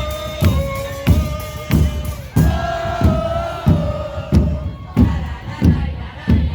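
Murga bombos con platillo (bass drums with cymbals mounted on top) beating a steady rhythm, about three strokes every two seconds, each stroke with a cymbal crash. Voices hold long shouted notes over the drumming.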